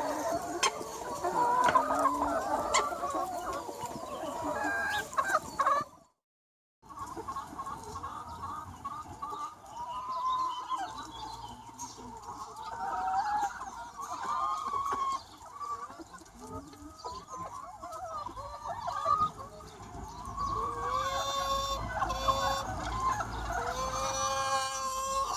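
A large free-range chicken flock clucking and calling, many hens at once, with longer drawn-out calls near the end. The sound drops out completely for under a second about six seconds in.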